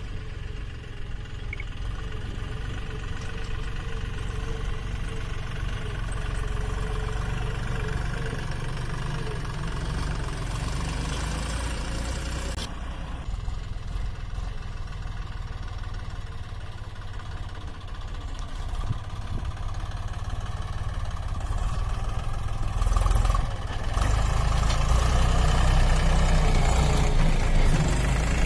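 Heavy diesel engine running steadily, growing louder near the end.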